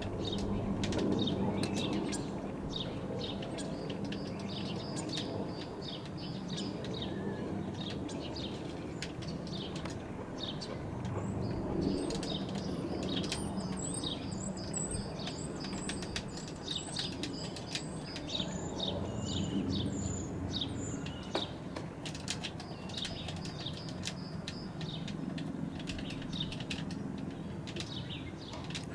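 Distant twin-turbine AgustaWestland AW139 helicopter droning steadily overhead, its rotor and engine hum low and even, while small birds chirp repeatedly over it, busiest in the middle.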